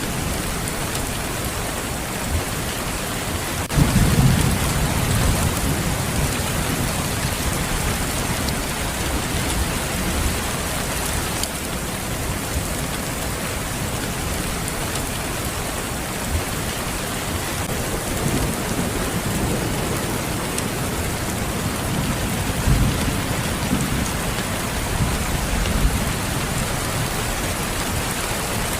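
Steady heavy rain, with a rumble of thunder breaking in suddenly about four seconds in and rolling away over several seconds; thunder rumbles again more softly later on.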